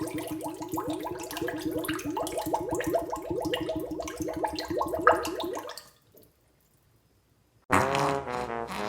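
Air glugging and bubbling through bath water in a quick, even run of gurgles, about five a second, which stops about six seconds in. After a moment of near silence, a loud pitched blast starts near the end.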